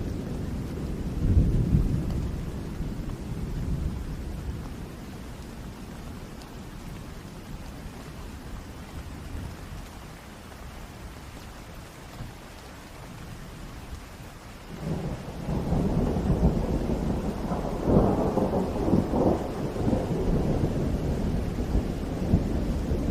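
Thunderstorm: steady rain with rolling thunder. A deep rumble dies away over the first few seconds, then about two-thirds of the way through a new roll of thunder starts suddenly and builds, with sharper cracks in it.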